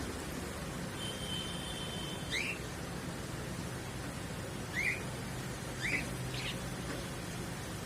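A pet bird calling over a steady background hiss: a held, even whistle about a second in, then a few short rising chirps a second or two apart.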